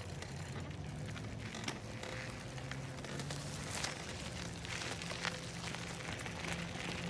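Bicycle moving along a dirt trail: steady crackling and rattling from the tyres and frame, with many small clicks.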